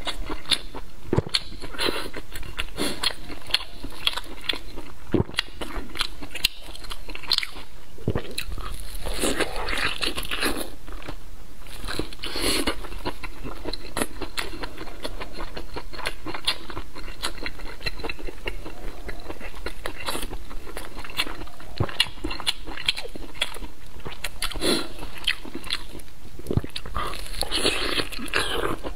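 Close-miked eating of soft braised intestines coated in chili oil: wet biting and chewing with many small mouth clicks, and a few louder wet, noisy stretches as pieces are pulled apart and taken into the mouth.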